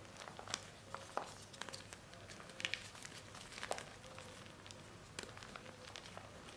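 Soft gym chalk and cornstarch paste being pressed and crumbled by hand: faint, irregular small crackles and clicks rather than a crunch.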